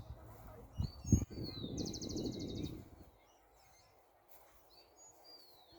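A songbird singing: a couple of slurred, falling whistles followed by a fast, even trill, repeated. Two low thumps about a second in, over a low rumble that fades out about halfway through.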